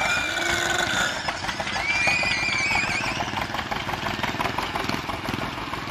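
Ford Model A coupe's four-cylinder engine running with an even, rapid pulse as the car drives slowly past.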